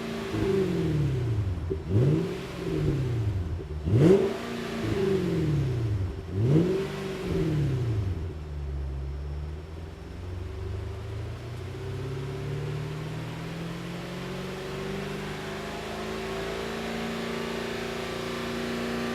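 Nissan Fuga 450GT's V8 through a one-off quad-tip exhaust with flat silencers, set up for a fairly quiet, deep tone: three quick throttle blips, each falling back, then from about eight seconds in the revs climb slowly and steadily.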